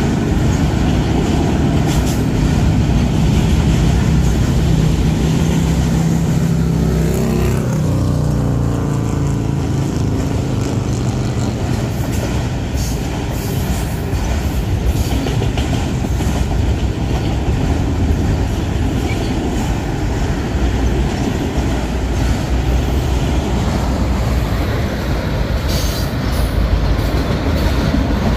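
Freight train of autorack cars rolling past: a steady rumble of steel wheels on rail, with scattered clicks and knocks from the passing trucks.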